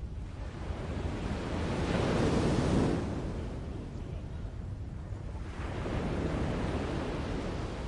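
Forest ambience: a steady rushing noise with no birdsong, swelling loudest about two and a half seconds in, easing off, then rising again a little past the middle.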